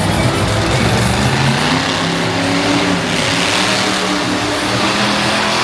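Monster truck engine running loud and revving, its pitch climbing about a second or two in.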